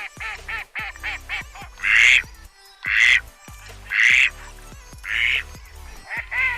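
Waterfowl calling: quick runs of short, quacking calls, broken in the middle by four louder, longer calls spaced about a second apart.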